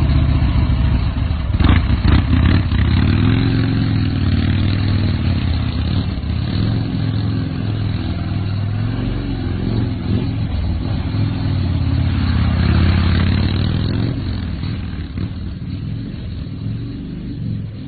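Motorcycle engine running just after starting, its pitch rising and falling with the throttle, with a longer rise in revs about twelve to fourteen seconds in before it eases off.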